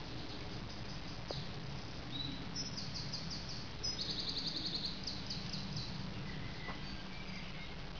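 A small songbird singing: two fast runs of rapid repeated high notes in the middle, the second one loudest, over a steady low background rumble.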